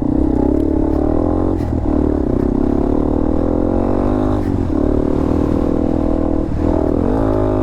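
Dirt bike engine running at a steady speed while being ridden, its note dipping briefly three times as the throttle comes off and back on.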